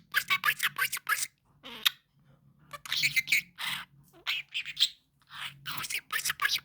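Budgerigar chattering and chirping in rapid clusters, with short pauses between them.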